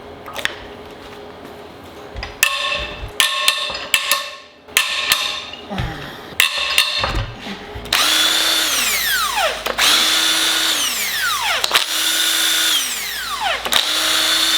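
Metal tools clinking and knocking for a few seconds, then a cordless power tool is run in short bursts: it spins at a steady pitch for a second or two, then winds down with a falling whine when released, about four times over.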